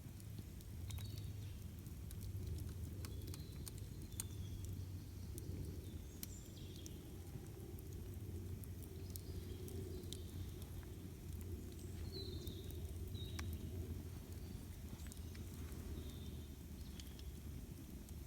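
Campfire crackling, with sharp irregular pops and snaps over a steady low rumble. Short high bird chirps come now and then.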